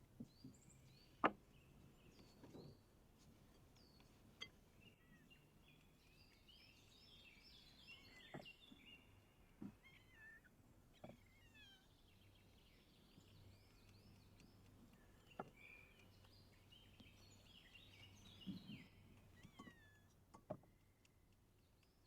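Faint small birds chirping in quick, repeated high notes, with a few scattered sharp knocks; the loudest knock comes about a second in.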